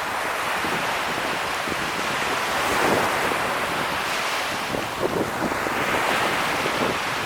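Sea surf breaking and washing on a beach, a continuous rush that swells about three seconds in and again near the end, with wind buffeting the microphone.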